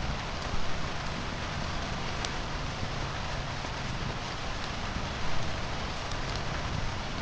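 Steady rain falling, an even hiss with a few brief sharp crackles and two short louder swells, about half a second and about five seconds in.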